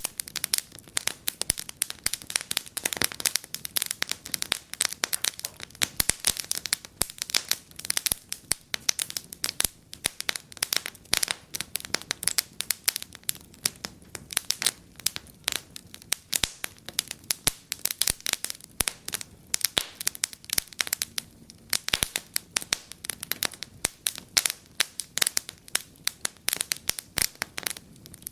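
Wood fire in a fireplace crackling and popping, with dense irregular snaps over a soft hiss of burning.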